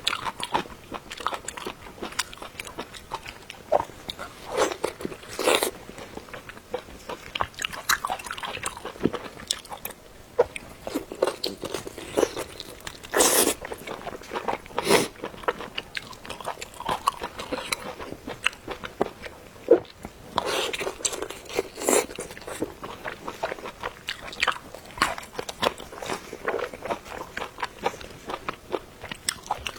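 People eating: irregular biting, crunching and chewing sounds, with a few louder bites partway through.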